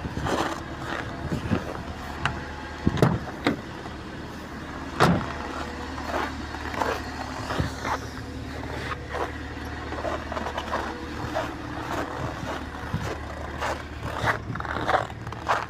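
A motor vehicle's engine running steadily, with scattered sharp knocks and crunches over it.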